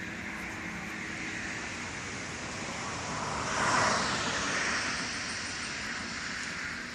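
A vehicle passing by, its noise swelling about three and a half seconds in and fading away over the next two seconds, over a steady background hum.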